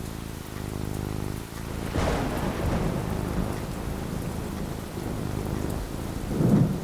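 Thunderstorm with steady rain falling. About two seconds in, a thunderclap cracks and rumbles away over a couple of seconds, and near the end a deeper roll of thunder comes, the loudest moment.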